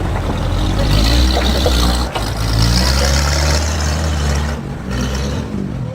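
A heavy engine running steadily, with a deep drone and a hiss above it; the drone shifts lower about four and a half seconds in.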